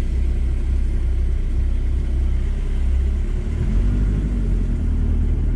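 VW T4 campervan running: a steady low engine and road rumble, its note shifting about three and a half seconds in.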